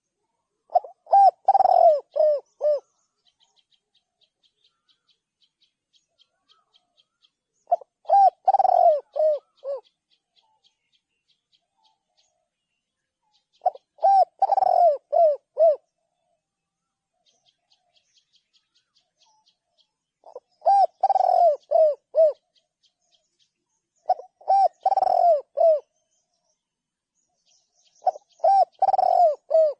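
Spotted dove cooing: six repeated phrases of several coo notes, each lasting about two seconds and spaced about six seconds apart. A faint, fast, high-pitched trill sounds between some of the phrases.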